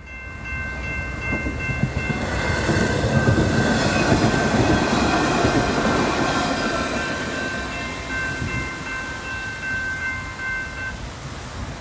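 Diesel passenger railcar passing at speed under full power: engine and wheels on the rails swell to a peak about four to six seconds in, then fade away, with a steady high whine that stops near the end.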